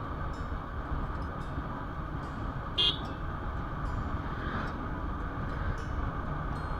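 A short vehicle horn toot about three seconds in, over steady road and wind noise from riding a motorcycle in traffic.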